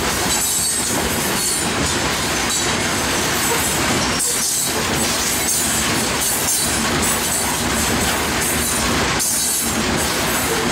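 Coal hopper cars of a Union Pacific unit coal train rolling past close by: a steady, loud rumble and clatter of steel wheels on the rails, without letup.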